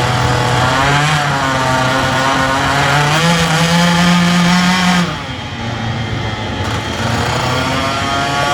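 Small single-cylinder minibike or scooter engine running hard on a dyno. The revs step up twice, drop off about five seconds in, then pick up again near the end.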